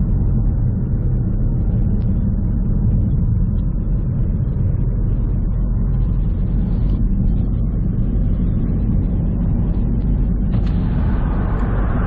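In-cabin noise of a Ford Focus being driven: a steady low rumble of engine and road. A brighter rushing noise joins near the end.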